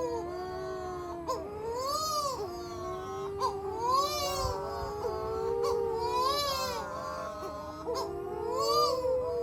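Young seabirds (the local "Matamanoa birds") giving long, overlapping wailing cries that rise and fall in pitch, several birds at once, with a brief higher trilling call about every two seconds.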